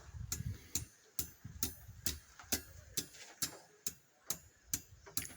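Hammer tapping a forged iron handle on an anvil, about two evenly spaced light blows a second, each with a short metallic ring: the work of straightening out a bend.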